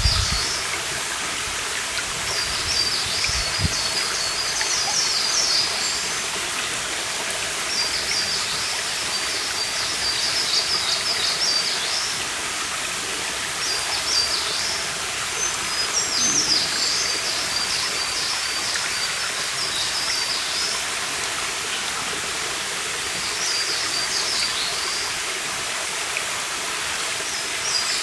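Shallow forest stream babbling steadily, with a songbird singing high phrases of rapid notes, each two to three seconds long, every few seconds.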